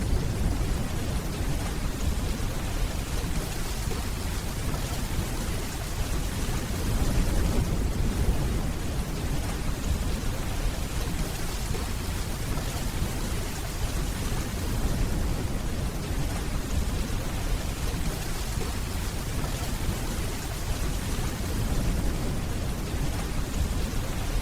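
Steady rainfall, with the low rolling rumble of distant thunder underneath that swells briefly about eight seconds in.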